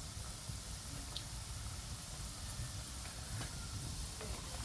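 Chicken pieces frying in hot groundnut oil, a steady sizzle with a few faint ticks.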